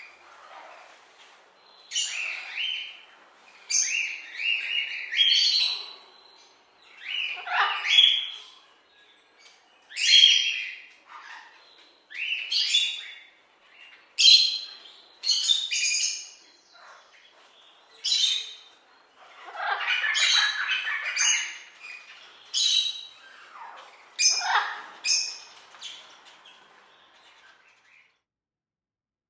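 Parrot squawking in a series of short, harsh calls, one every second or two, stopping shortly before the end.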